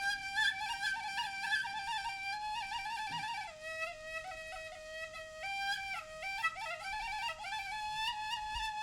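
Balinese suling bamboo flute playing a solo melody. It moves in stepped notes with quick trills and turns, dips lower in the middle and climbs back near the end.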